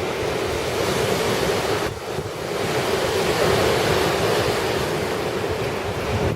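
Typhoon wind blowing hard in gusts and buffeting the microphone, easing briefly about two seconds in and then swelling again.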